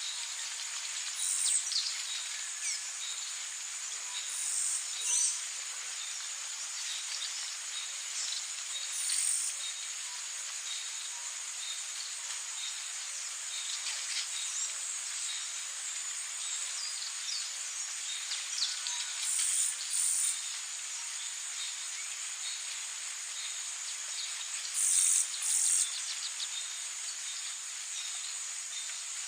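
Rainforest ambience: a steady, high-pitched chorus of insects, with brief louder chirps every few seconds, several coming in quick pairs.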